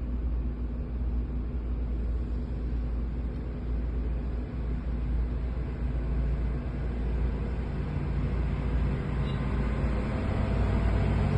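Heavy truck's diesel engine running steadily with a low rumble, getting a little louder near the end.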